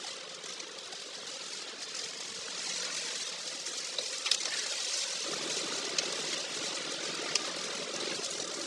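Car driving on a wet road, its tyres hissing through standing water, with a few sharp ticks. The low road noise swells about halfway through.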